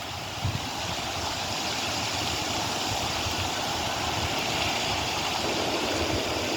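Wind buffeting the microphone: a steady rushing noise with an irregular low rumble.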